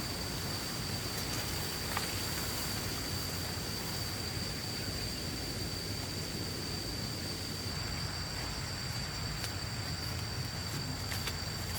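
Steady outdoor background noise with a continuous high-pitched whine over a low rumble, broken by a few faint clicks and a sharp knock at the very end.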